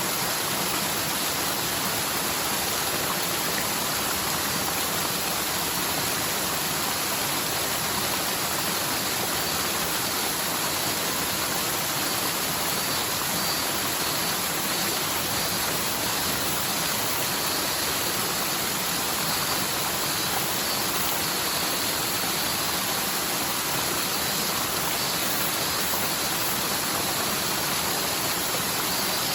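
Rain-swollen mountain stream rushing and splashing down a forest slope, a steady even rush of water.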